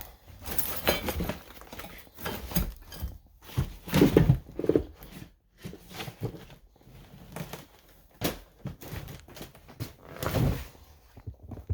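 Footsteps with irregular thuds and knocks, and rustling between them, of a person picking their way over a cluttered floor.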